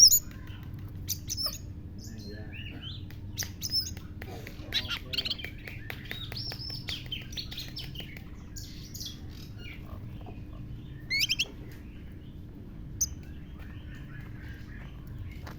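Oriental magpie-robin (kacer) singing a varied run of chirps, whistles and short sharp calls that imitate a lovebird's. A loud sharp call opens it, and a rising call comes about eleven seconds in.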